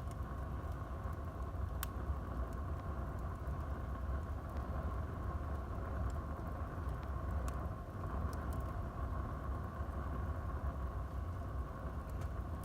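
Wood fire burning in a fireplace: a steady low rumble of the flames with a few sharp crackles scattered through it, one about two seconds in and several more in the second half.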